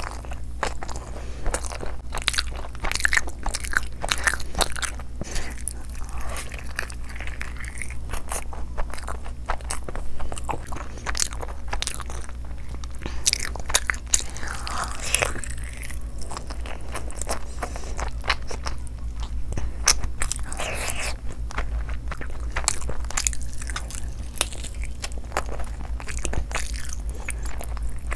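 Close-miked eating sounds: wet chewing, biting and lip smacking on curry-soaked fried chicken leg pieces, with frequent sharp clicks and smacks over a steady low hum.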